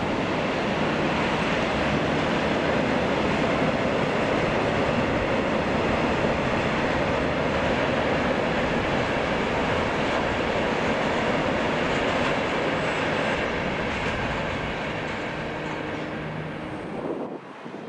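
A train passing through the station on the main line, a loud steady rumble of wheels on rail that fades away over the last few seconds and then cuts off abruptly.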